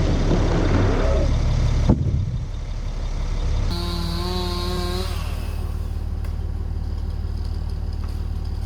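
A vehicle or machine engine running. About two seconds in it changes abruptly to a quieter steady hum, with a brief whine in between.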